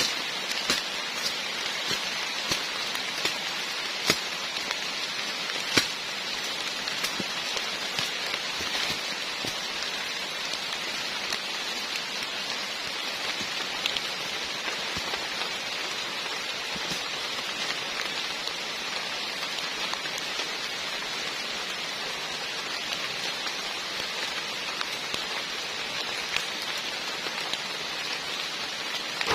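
Heavy rain falling steadily, with many sharp drops striking close by and a few louder ones in the first six seconds.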